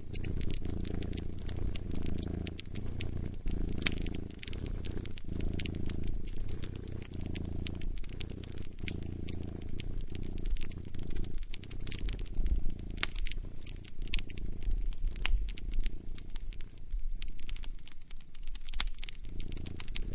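A cat purring steadily in a low, gently pulsing rhythm. Over it a wood fire crackles and pops in scattered sharp clicks.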